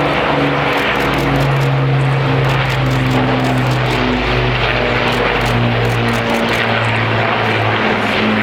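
Avro Lancaster bomber flying past, its four Rolls-Royce Merlin V12 piston engines and propellers making a loud, steady drone whose pitch wavers slowly.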